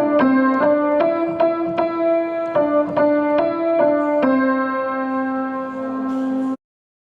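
Piano playing a simple melody over a lower line, notes struck two or three a second, ending on a held note that stops abruptly about six and a half seconds in.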